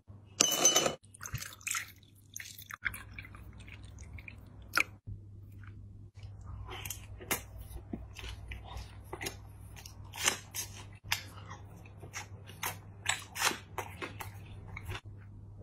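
A person biting and chewing food close to the microphone, in many short crunchy, wet bites that come irregularly through the second half. About half a second in comes a short loud splash of liquid poured into a glass with ice.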